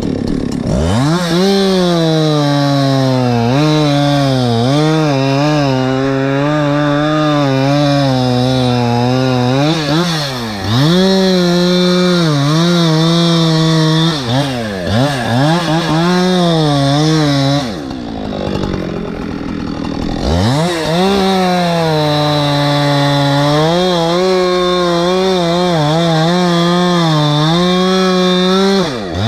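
Two-stroke chainsaw running near full throttle while cutting a tree, its pitch wavering and dipping again and again as the chain bogs in the wood. The revs fall away briefly a few times, and once, about two-thirds of the way through, they drop to a lower idle for a couple of seconds before the saw is throttled back up.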